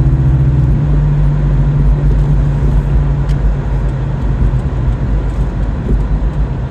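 A car driving: a steady low engine hum with road noise. The engine note shifts in pitch a little under a second in.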